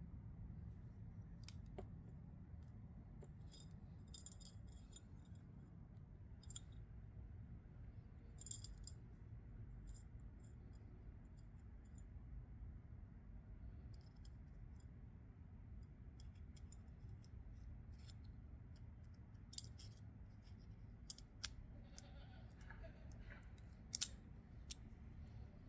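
Scattered small, sharp metallic clicks and taps, irregular and some louder than others, from the parts of a folding knife and small tools being handled during disassembly or reassembly, over a quiet low hum.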